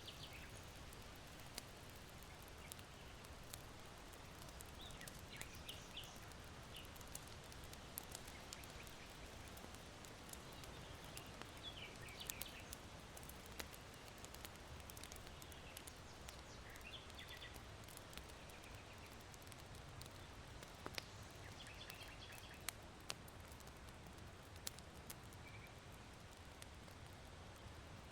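Faint ambience of a charcoal fire in a sunken irori hearth crackling with scattered sharp pops, small birds giving short chirps every few seconds, over a steady low hiss of wind.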